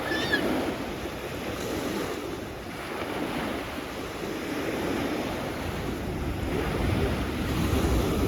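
Sea waves washing ashore: a steady surf wash that swells louder near the end, with wind buffeting the microphone.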